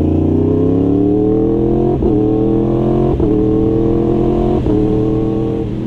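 Yamaha R1's inline-four engine pulling under acceleration, its pitch rising and then holding, with short breaks in the note about every second or so.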